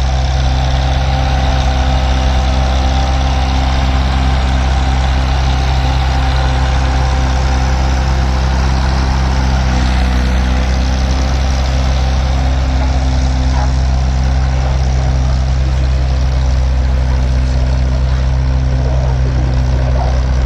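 Antique farm tractor engine running steadily at a constant speed, loud and close.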